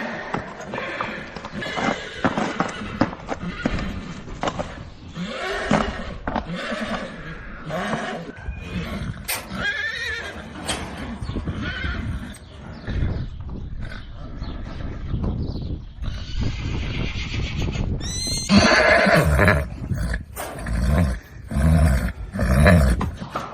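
Horses whinnying and neighing, several calls with sliding pitch, the loudest and longest about three-quarters of the way in.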